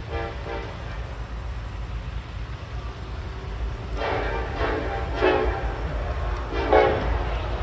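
Norfolk Southern SD70ACe diesel locomotive sounding its air horn in separate blasts, briefly at the start, longer about four seconds in and briefly again near the end, over the low rumble of the approaching train.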